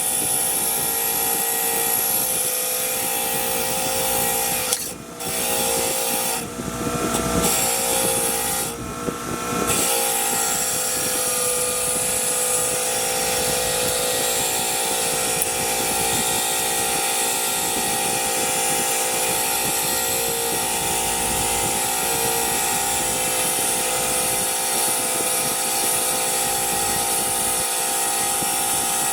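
A power tool's motor running steadily, with a few brief drops and changes in its sound between about five and ten seconds in.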